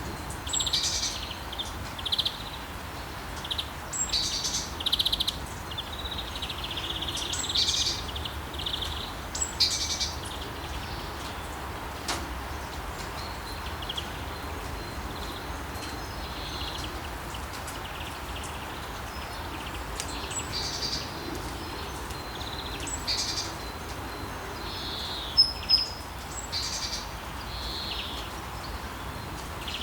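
Birds chirping and calling in scattered bursts over a steady wash of sea waves, with two sharp, louder chirps about 25 seconds in.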